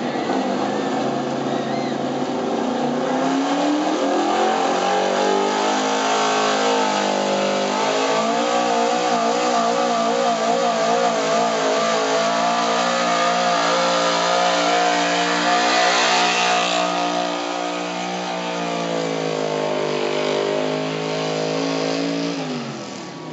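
A pulling truck's engine running hard under load during a truck-pull run. Its revs climb over the first several seconds, hold high with a wavering pitch, then drop off near the end.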